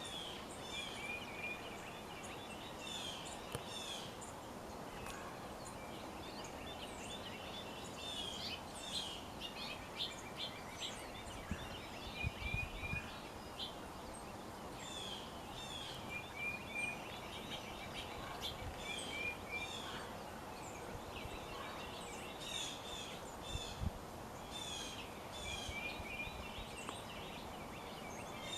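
Songbirds calling, with short phrases of quick high chirps and trills repeated every few seconds over a steady background hiss of outdoor ambience. There are two brief low thumps, near the middle and later on.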